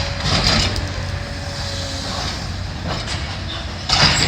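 Heavy demolition machine's engine running steadily, with two short bursts of scraping and crashing debris as it tears a beam out of the building; the second, near the end, is the loudest.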